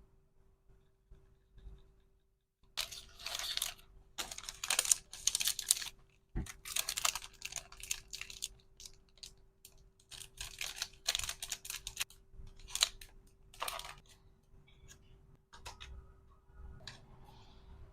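Packaging being handled, with irregular bursts of crinkling and rustling starting about three seconds in, easing to softer handling noises after about fourteen seconds. A faint steady hum runs underneath.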